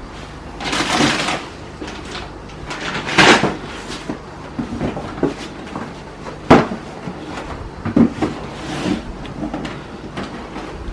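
Groceries being packed into a fridge: rustling of plastic packaging, then a few sharp knocks of containers and fridge drawers or shelves being moved.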